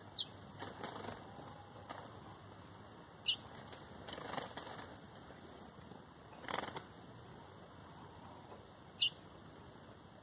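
Small songbird's wings fluttering in several short bursts as it flies about a cage, with three sharp, short falling call notes spaced a few seconds apart.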